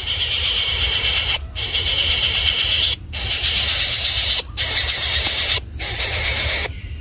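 Shrill, hissing squealing of young animals, in four stretches broken by short sudden gaps, stopping just before the end.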